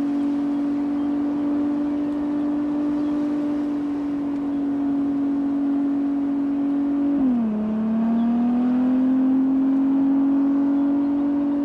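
Ferrari 296 GTS's twin-turbo 120° V6 running at steady, high revs with a strong single engine note. About seven seconds in the pitch drops sharply, as in an upshift, then climbs gradually as the car pulls through the next gear.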